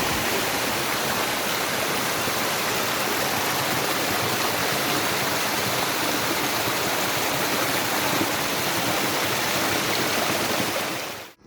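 Steady rushing water of a forest stream, an even hiss that cuts off abruptly near the end.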